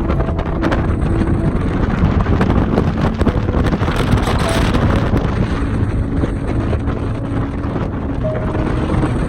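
Wind buffeting the microphone over the steady, loud rush of a fast passenger boat under way at high speed.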